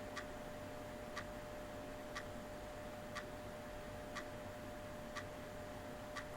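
Clock ticking evenly, one tick a second, over a faint steady hum.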